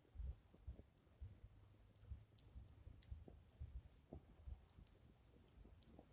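Wood fire crackling faintly, with sparse sharp pops several times a second, over an irregular low rumble of wind buffeting the microphone.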